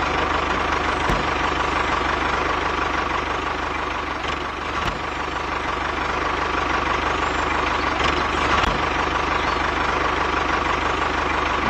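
A tractor engine idling steadily with a fast, even firing beat and no change in speed.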